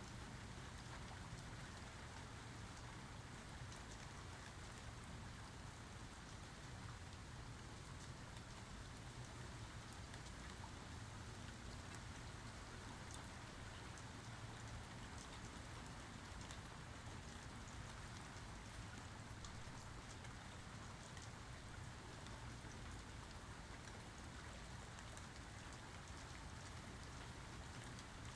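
Steady rainfall with scattered drops pattering on surfaces, with no thunder heard.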